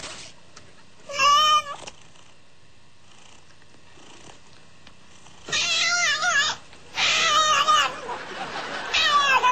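A cat meowing loudly in wavering yowls: one short call about a second in, then three longer, drawn-out calls in the second half.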